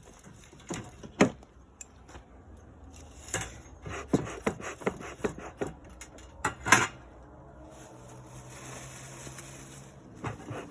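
Irregular knocks and metallic clatter of a bee smoker being handled as pine straw is packed into it, loudest about six and a half seconds in, followed by a softer steady hiss.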